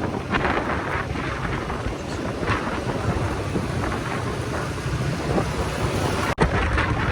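Wind buffeting the microphone on a moving motorcycle, with the engine and road noise rumbling underneath. The sound cuts out for an instant about six seconds in.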